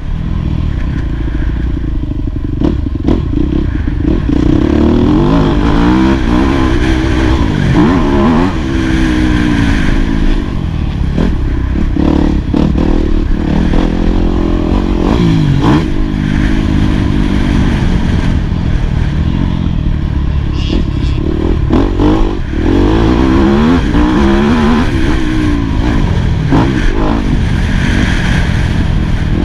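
Yamaha YZ250F four-stroke single-cylinder motocross engine, revving hard and dropping back again and again as the bike is ridden around a motocross track. Scattered knocks and clatter are mixed in.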